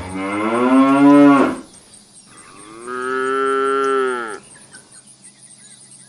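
Cattle mooing: a long moo that began just before ends about a second and a half in, then a second long moo of about two seconds follows.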